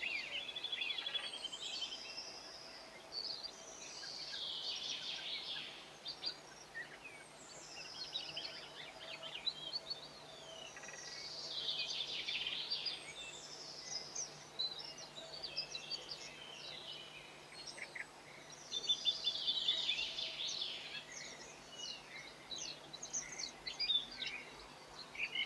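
Small songbirds twittering in repeated bursts of quick, jumbled chirps and trills, each burst a few seconds long with short pauses between.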